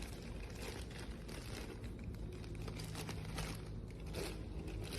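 Faint rustling and crackling with many small irregular clicks over a low hum.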